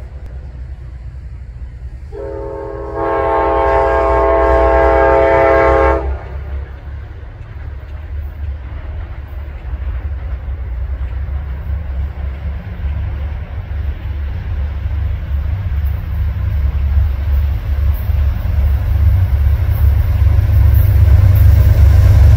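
Amtrak GE Genesis diesel locomotive's horn sounds one long blast, a chord of several notes, starting about two seconds in and cutting off about four seconds later. After it, the approaching passenger train's rumble builds steadily and is loudest near the end as the locomotive reaches the microphone.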